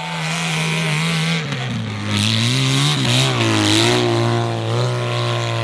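Racing motorcycle engine running hard, cutting in suddenly; its pitch drops about a second and a half in, wavers, then holds steady.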